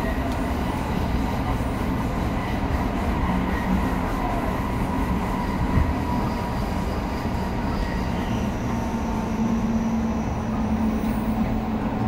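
Running sound of an Odakyu electric train heard from inside the passenger car: a steady rumble of the wheels on the rails with a faint steady whine.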